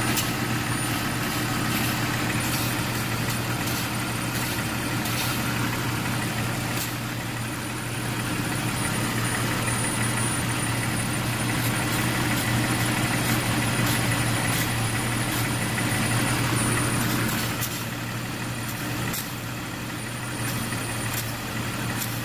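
Jeep Cherokee 4.0 straight-six idling steadily, with a thin high-pitched whistle from air being sucked in through a cracked vacuum line. Water is sprayed onto the lines in several short squirts, and the whistle drops out about three-quarters of the way through as water reaches the leak.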